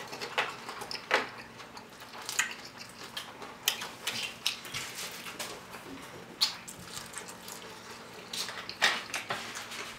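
Close-miked eating of fried chicken wings: irregular crunching, chewing and wet mouth smacks.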